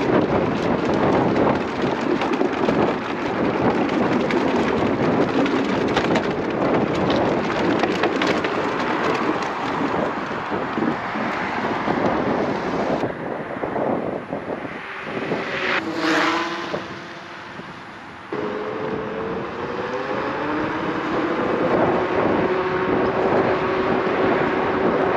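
Wind buffeting the microphone during an electric scooter ride, a loud rushing noise with scattered clicks. It changes abruptly twice, and in the second half a whine rises in pitch.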